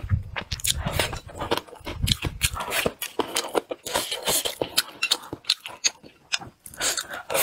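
Close-up chewing and lip-smacking of a man eating, a rapid run of small wet clicks, with chopsticks scraping and tapping in a bowl.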